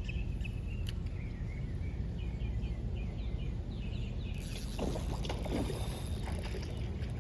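Wind rumbling on the microphone, with small birds chirping in quick repeated runs; about four seconds in, a crackling, splashy hiss joins.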